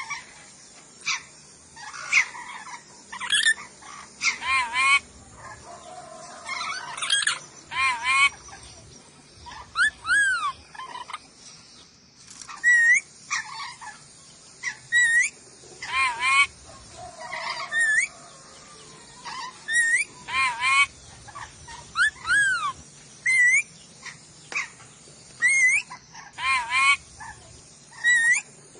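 Sulawesi nuri dora parrot calling over and over: short, shrill arching notes that rise and fall, mixed with harsher screeches, one or two a second.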